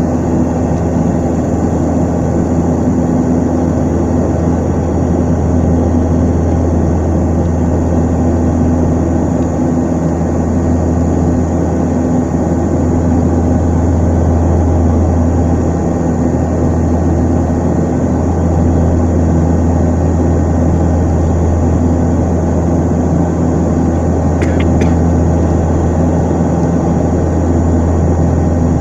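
Antonov An-24's twin Ivchenko AI-24 turboprop engines and propellers running with a steady, loud, low drone. Near the end there is a single brief click.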